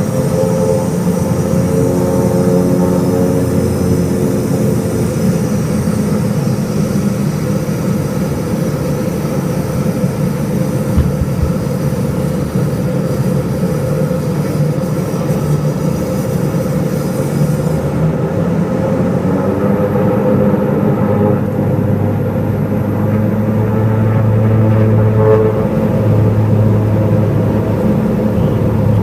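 Tour plane's engines running loud and steady during takeoff. About two-thirds of the way through, the higher hiss fades and a deeper hum comes in.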